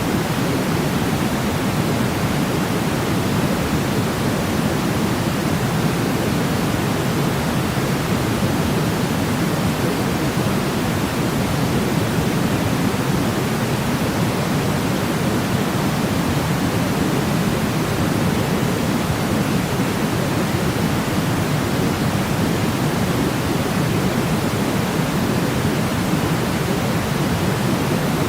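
Steady white-noise sleep sound: an even, unbroken rush weighted toward the low end, like pink noise, with no change or pattern.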